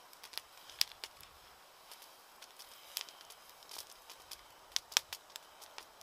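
Wood campfire crackling: irregular sharp pops and snaps over a faint hiss, with a few louder snaps about a second in, around three seconds and near five seconds.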